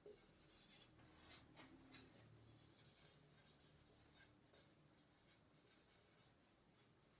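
Faint scratching of a pen or marker writing on a board, in short irregular strokes.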